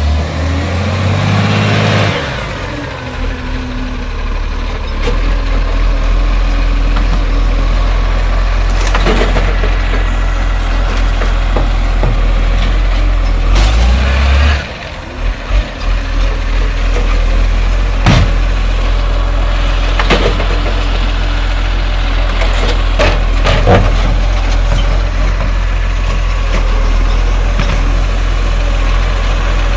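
Side-loader garbage truck running, its diesel engine revving up near the start and again about halfway through, with several sharp knocks and bangs.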